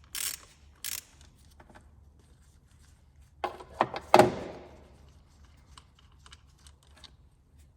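Two last short strokes of a ratchet wrench working a bolt on an M57 diesel's vacuum pump, then a few knocks and a clatter of hard objects with a short ring, the loudest about four seconds in, followed by faint light ticks.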